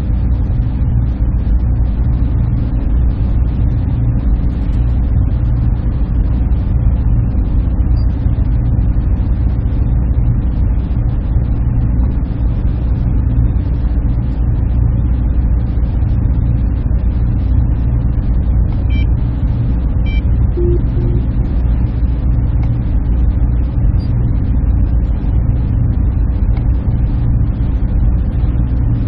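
Server room ambience: a steady, unbroken hum and rush of cooling fans and air handling, heaviest in the low range.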